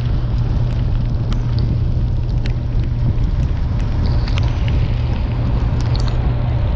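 Boat engine running steadily under way in a heavy rainstorm, a constant low hum under a dense hiss of rain and wind, with scattered sharp ticks of raindrops striking the microphone.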